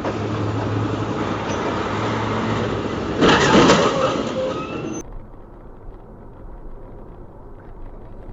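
Vehicle driving with steady road and engine noise and a low hum, broken about three seconds in by a loud, rough burst of noise lasting about a second. About five seconds in the sound cuts abruptly to quieter, duller road noise from another recording.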